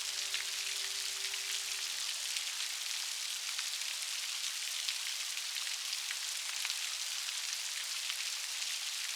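Steady rain, with many small drops pattering and ticking. A held piano note fades away in the first two seconds or so, leaving the rain alone.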